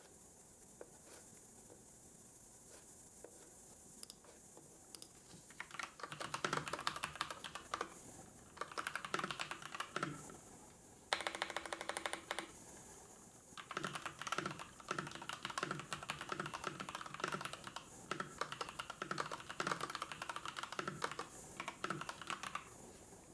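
Typing on a computer keyboard in bursts of rapid key clicks, after a quieter start with a few scattered clicks. About halfway through comes a steady, even run of rapid clicks lasting two seconds or so, and then the typing resumes.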